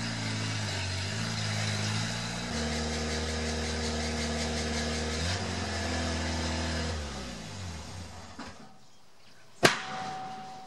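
Škoda 130's rear-mounted four-cylinder engine idling, its note shifting about two and a half seconds in, then winding down and stopping around eight seconds in. About a second and a half later comes a single sharp bang from the rear: an exhaust backfire, which the owner puts down to the ignition timing.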